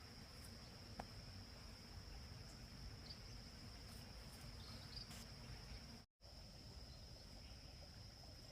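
Insects trilling steadily on one high, even pitch over faint background noise. The sound cuts out completely for a moment about six seconds in.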